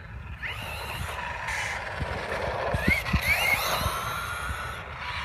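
Losi Baja Rey 1/10 RC desert truck being driven: its electric motor whines and rises in pitch with each burst of throttle, several times, over a gritty hiss from the tyres. There are a few sharp thumps around the middle.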